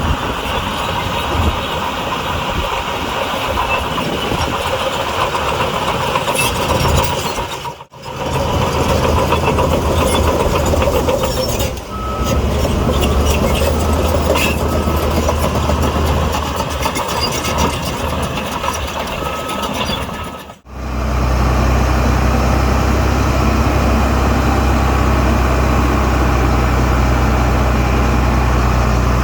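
Heavy diesel earthmoving machinery, bulldozer and dump truck engines running, in three stretches joined by two abrupt cuts. In the middle stretch a reversing alarm sounds a run of short high beeps over the engine, and the last stretch is a deep, steady engine drone close to the microphone.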